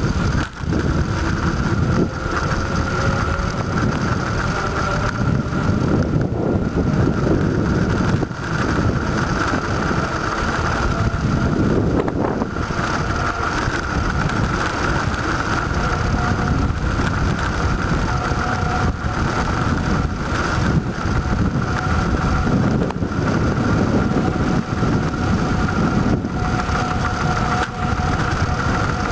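Wind rushing over the microphone of a moving bicycle rider: a loud, steady rushing noise with a constant high whine running through it.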